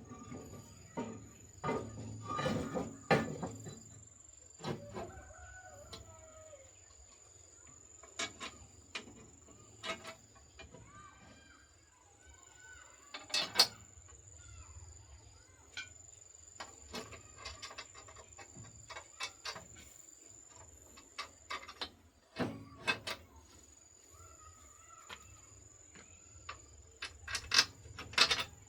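Chickens clucking and calling, mixed with scattered sharp clinks and knocks of tool work on metal, over a faint steady high-pitched whine.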